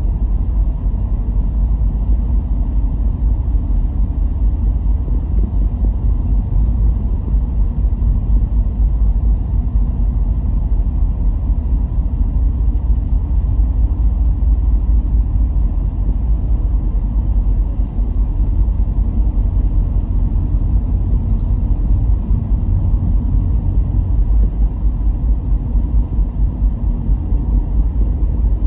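Car driving along a road: steady low rumble of tyre, road and engine noise.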